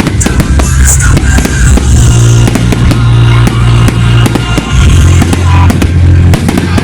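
Fireworks going off in repeated bangs and crackles over loud music with a deep, sustained bass line.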